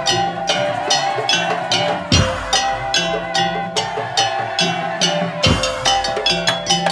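Madurese tong-tong ensemble music: rapid, dense strikes of wooden and bamboo percussion over a steady held melody. A deep low stroke lands twice, about two seconds in and again about five and a half seconds in.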